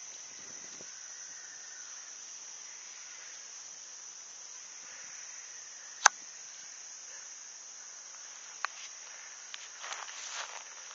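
Steady, high-pitched drone of insects, with one sharp click about six seconds in, a fainter click a couple of seconds later, and light rustling near the end.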